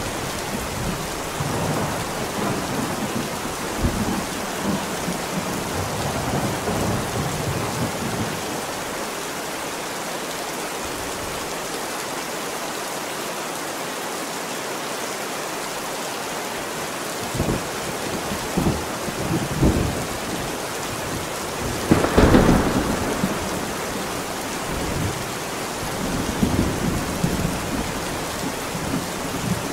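Steady heavy rain with thunder: low rolling rumbles at first, then a few sharp cracks late in the stretch, the loudest about two-thirds of the way through.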